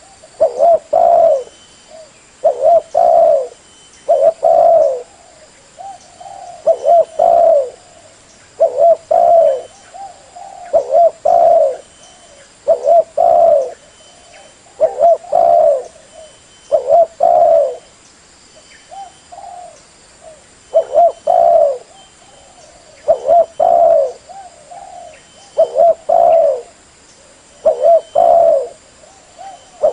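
Spotted dove (terkukur) cooing: the same short coo phrase repeated about every two seconds, with a few fainter coos in between.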